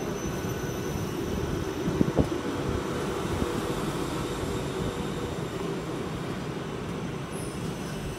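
Class 334 electric multiple-unit train running through the station: a steady rumble of wheels on rails with a faint steady whine, easing off slightly, and a single clack about two seconds in.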